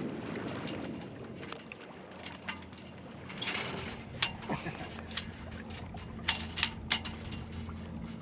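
A handful of sharp clicks and knocks from gear aboard a small sailboat, mostly in the second half, over a steady low hum.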